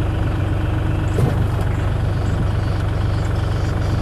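Bobcat E32 mini excavator's diesel engine running steadily with a deep, even hum, heard from the operator's seat, with a light knock about a second in.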